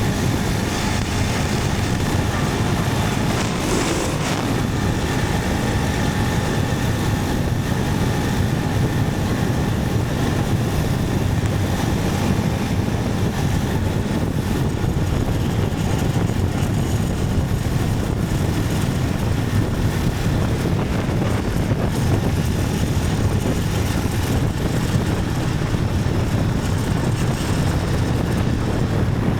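Motorcycle riding at a steady pace: the engine runs evenly under a constant rush of wind and road noise, with no change in speed.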